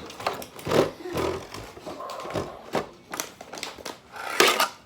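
Scattered small clicks and knocks from handling the pieces of a Tech Deck fingerboard toy set, with the loudest knock near the end.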